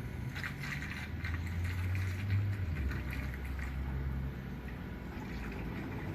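Distilled water being poured from a gallon jug into a car radiator, gurgling and splashing as it fills, with a low hum underneath.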